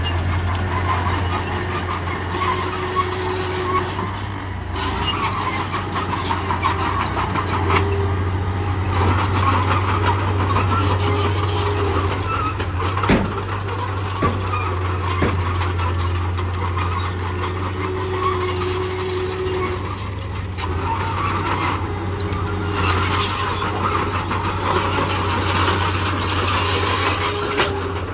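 Heavy diesel earthmoving machinery running, a steady low engine drone with squeals that come and go, and a couple of sharp knocks about midway.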